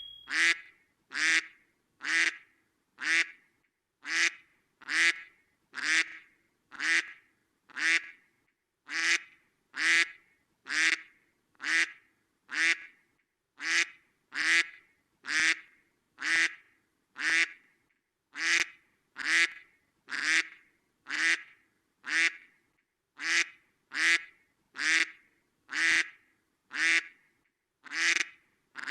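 Domestic duck quacking, one quack roughly every second, evenly spaced and near-identical, like a kwek-kwek-kwek call repeated over and over.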